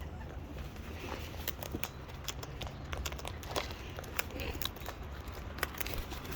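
Parrots cracking and chewing seed: a steady scatter of small, irregular crunches and clicks.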